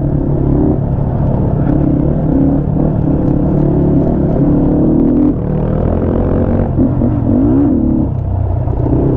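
A 250 cc motorcycle engine running while riding: a steady low rumble whose pitch rises and eases with the throttle, wavering briefly about seven seconds in.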